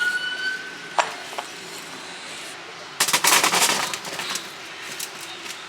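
Hard objects knocking and clattering in a kitchen: a couple of single knocks about a second in, then about a second of rapid rattling clatter from around three seconds in, followed by a few lighter clicks.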